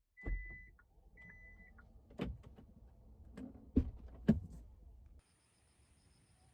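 Two short high electronic beeps, then a series of clicks and knocks from handling inside a car, three sharp ones the loudest. About five seconds in, the sound cuts off.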